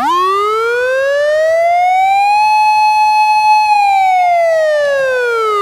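Toy fire rescue truck's electronic siren sound playing one slow wail: the pitch rises for about two seconds, holds steady for about a second, then falls away.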